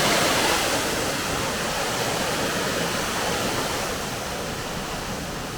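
Minō Falls, a 33 m waterfall, pouring steadily and splashing into its plunge pool: a continuous rushing hiss that eases slightly about four seconds in.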